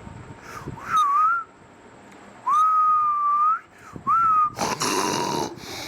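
Whistling: three clear notes at about the same pitch, a short wavering one, a long held one of about a second, and a short one that slides up into the note. A noisy burst about a second long follows near the end.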